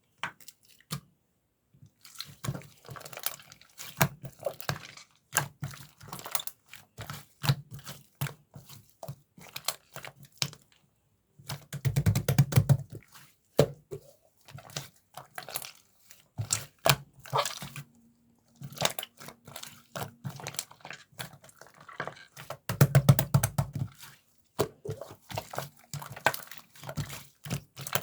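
Slime being squished and pressed by hand, making sticky clicks and small pops in irregular runs. Two denser, louder bursts of squelching come about twelve and twenty-three seconds in.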